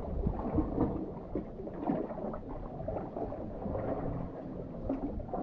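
Wind rumbling and buffeting on the microphone outdoors, an uneven low rumble with no clear events.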